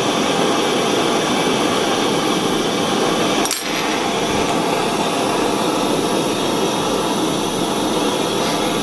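Steady rushing noise, like a blower or a torch flame, with a single sharp click about three and a half seconds in.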